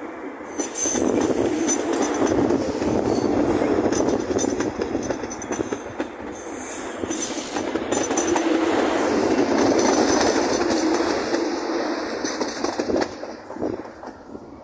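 Electric suburban train running past on the rails, a loud steady rolling rumble of wheels on track with a brief high-pitched wheel squeal about seven seconds in, fading near the end.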